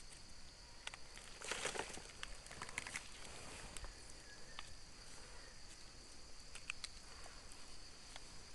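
Steady high-pitched insect drone with scattered rustling and small snaps of leaf litter being disturbed by hand or foot, a louder rustle about one and a half seconds in.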